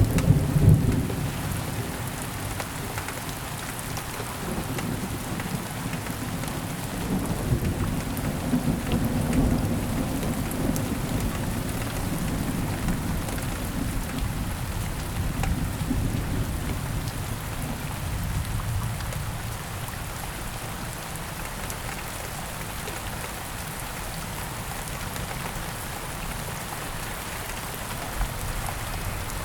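Steady heavy rainfall with rolling thunder rumbling low beneath it, strongest in the first half and dying away after about twenty seconds, leaving the rain alone.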